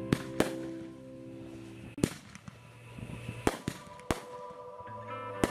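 Aerial fireworks going off: about half a dozen sharp bangs at uneven intervals, the loudest near the start, about two seconds in and near the end.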